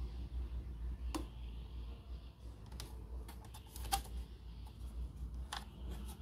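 Irregular small clicks and taps, about half a dozen, over a low steady hum.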